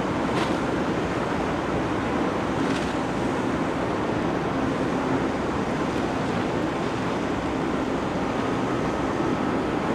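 Steady rushing of wind and water with a low, even drone underneath, from a large ferry's engines.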